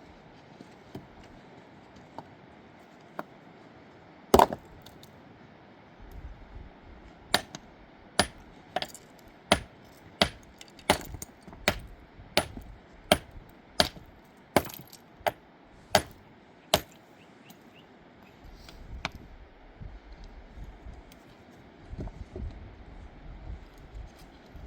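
A run of sharp, hard knocks, about one every 0.7 to 0.8 seconds, with a single louder strike before them, over a steady hiss.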